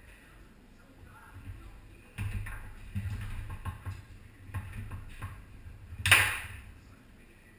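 Foosball played on a Tornado table: the ball is knocked back and forth with a run of sharp clacks and rod rattle. One loud hard strike comes about six seconds in.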